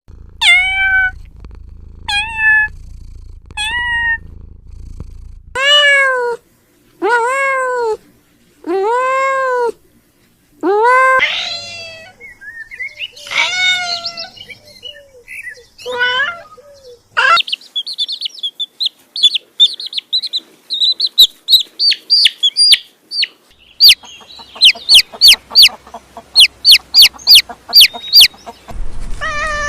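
A series of cat meows: three short falling mews, then three long meows that rise and fall in pitch, then a run of quick high-pitched kitten mews, ending in short sharp mews about two a second.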